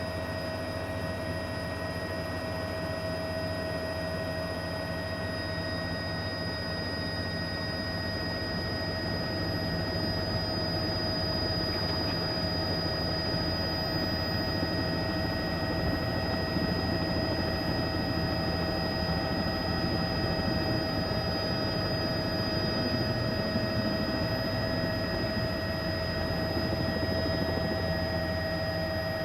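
A steady mechanical drone: a low rumble with a constant high whine over it, growing slightly louder about a third of the way in.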